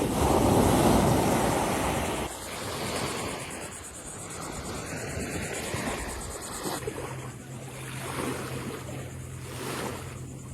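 Ocean waves breaking on the shore, a surge swelling in the first couple of seconds and then easing, with wind buffeting the microphone. A faint low steady hum comes in about seven seconds in.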